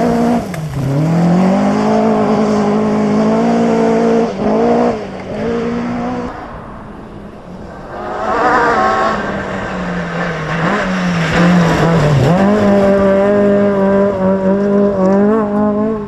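Rally car engines at full throttle, revs climbing and dropping sharply through gear changes. The engine sound fades about six seconds in, then a car is heard again about two seconds later, holding high revs with quick lifts near the end.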